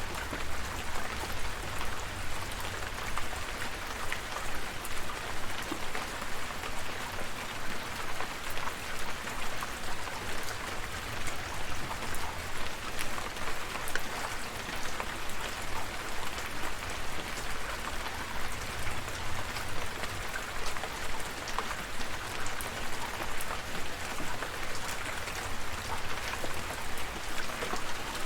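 Steady rain falling, an even hiss with many fine drop ticks pattering through it and a low rumble underneath.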